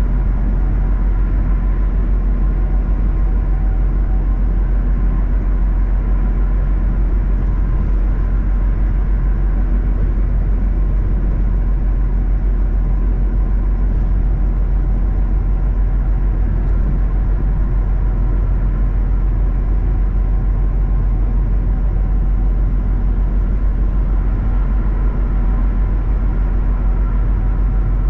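Steady drone of a semi truck's diesel engine and road noise while driving, with an even, unchanging low hum.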